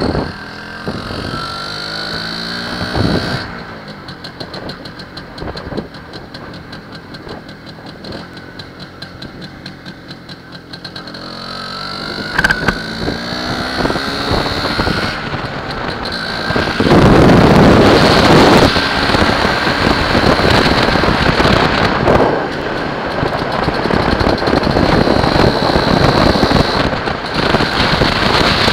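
An MZ ETZ 301's single-cylinder two-stroke engine running on the road, its pitch rising under acceleration, easing off, then climbing again. From about the middle on, loud wind rushing over the microphone at speed drowns most of it.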